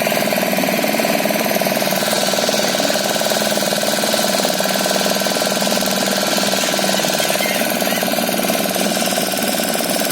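Engine running steadily at an even speed, a constant drone that does not rise or fall.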